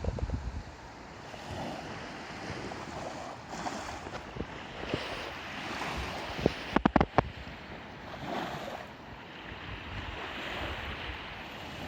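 Sea waves washing onto a sandy beach, swelling and easing, with wind buffeting the microphone. About seven seconds in, a quick cluster of sharp knocks stands out above the surf.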